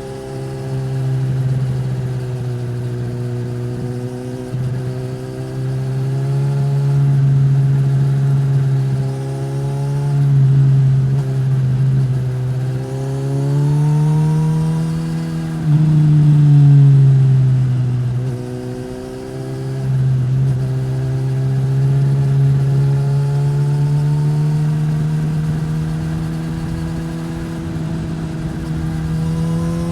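A Suzuki GSX-S1000's inline-four running through a Yoshimura R-11 slip-on exhaust, under way with the throttle opening and closing. The engine note rises and falls several times. It climbs highest a little past the middle, then drops away sharply before building again.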